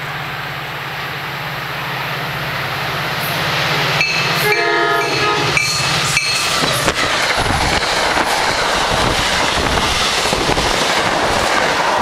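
A train approaching and passing a station platform at speed: its horn sounds a few short blasts about four seconds in, then the rush of the train going by swells, with wheels clattering over the rail joints.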